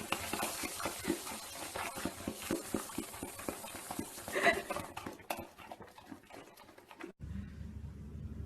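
Animal sounds: a quick, uneven run of light taps and knocks over background noise, with a louder sound about four and a half seconds in. A low steady hum takes over near the end.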